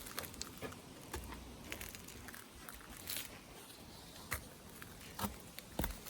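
Footsteps outdoors: irregular crunching steps, roughly one every half second to a second, over a faint background hiss.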